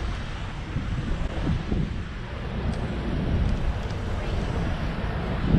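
Wind rumbling on the microphone over steady traffic noise.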